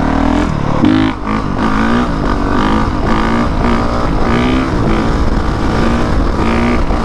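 Honda CRF450R's single-cylinder four-stroke engine being ridden, revving up and falling back over and over, about once a second, as the throttle is worked.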